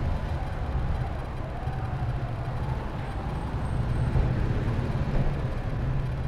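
Motorbike on the move in town traffic: a steady low rumble of engine, road and wind, with a faint wavering tone about a second and a half in.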